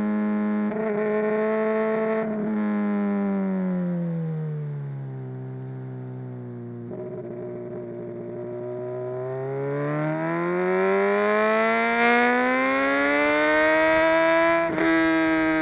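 Inline-four engine of a Honda CBR 600 RR sportbike running through a Mivv X-Cone dual exhaust. The revs fall steadily over the first few seconds and sit low for a while, then climb again in a long rise, with a brief break in the sound near the end.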